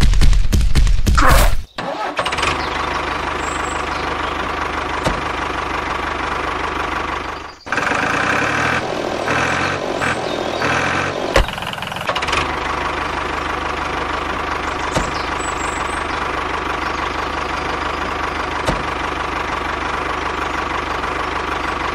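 Tractor engine sound: a loud start in the first second or two, then running steadily, with a brief change in its rhythm about eight to twelve seconds in.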